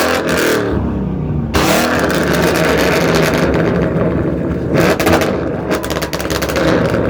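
Car engine revving hard, with sudden loud bursts of noise near the start, about a second and a half in, and again about five seconds in.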